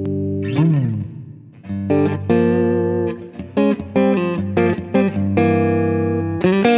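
Electric guitar played through a Poly Effects Poly Verbs impulse-response reverb pedal. A held chord rings on, then comes a quick bend up and back down in pitch about half a second in. From about a second and a half in, a run of picked chords and notes follows.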